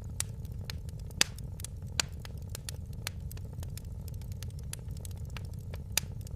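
Fire in a fireplace crackling: a steady low rumble under frequent small crackles, with louder pops about a second in, at two seconds, and near the end.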